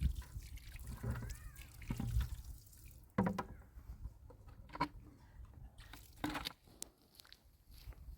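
Water dripping and splashing, with scattered light knocks.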